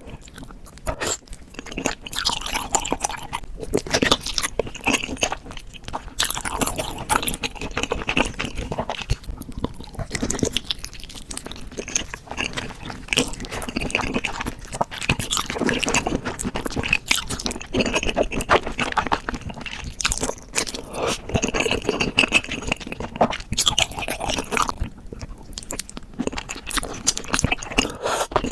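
Chewing and biting into beef feet close to the microphone: a dense, continuous run of crunching clicks.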